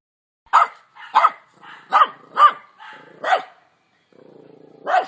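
A dog barking, about six sharp barks at uneven intervals.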